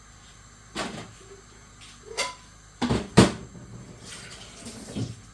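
A few separate knocks and clatters of pots, lids or cupboards being handled while cooking, the loudest about three seconds in, followed by a short rush of noise near the end.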